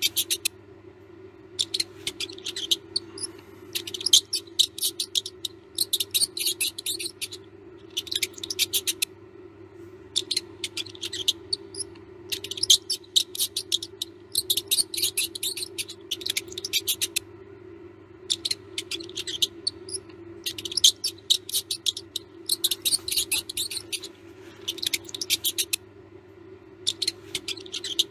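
Mouse squeaking in rapid high-pitched bursts, each about a second long, with short pauses between them, over a steady low hum.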